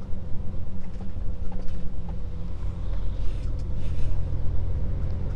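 Scania S500 truck's diesel engine running steadily at low speed, heard as a low hum inside the cab.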